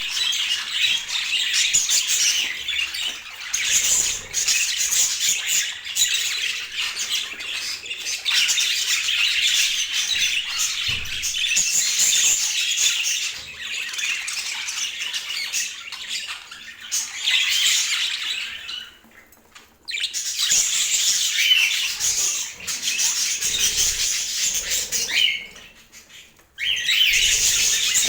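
Budgerigars chattering in a busy, high-pitched warble, with two short lulls in the second half.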